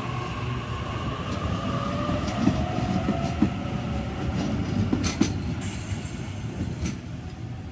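Sydney Trains Waratah electric train, set A34, running along the platform: a steady rumble with wheels clicking over the rail joints. A brief sharp metallic noise comes about five seconds in.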